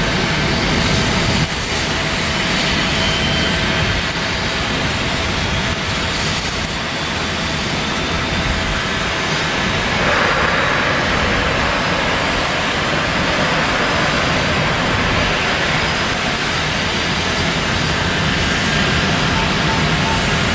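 Jet airliner engines running with a steady, loud noise; about halfway through, a higher-pitched hiss comes in on top.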